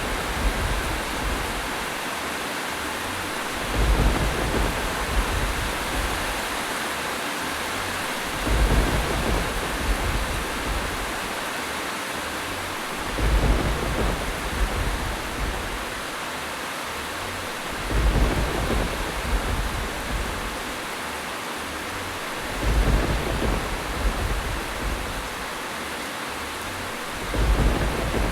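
Steady rain hiss with a low rumble of thunder swelling up about every four and a half seconds, six times over, evenly spaced like a looped recording.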